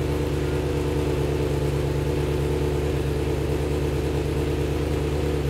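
Racing motorcycle engine, freshly fitted, running at a steady idle.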